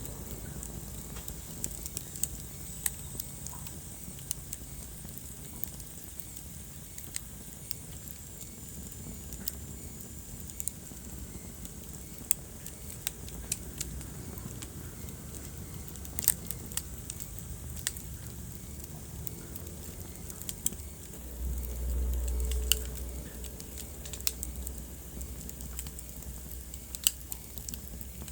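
Wood fire crackling in a fireplace: irregular sharp pops and snaps over a soft steady hiss. Late on, a low rumble swells for a couple of seconds.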